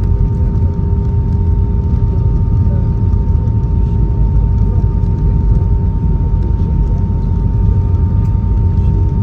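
Airbus A320 cabin noise from a window seat: a loud, steady low rumble with two steady hums, one low and one higher, and no change in level.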